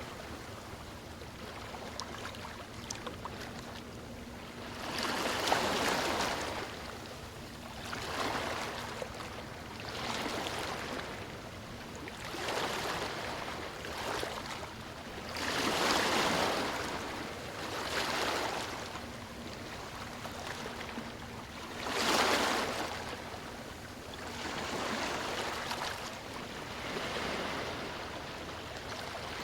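Sea waves breaking and washing on a beach, one swell of surf every two to three seconds over a steady wash of water.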